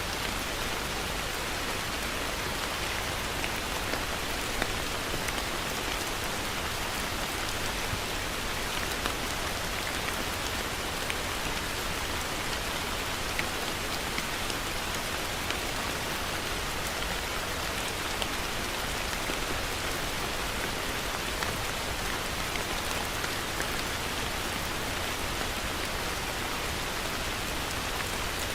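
Heavy rain falling steadily, a dense even hiss with scattered individual drops pattering on a surface.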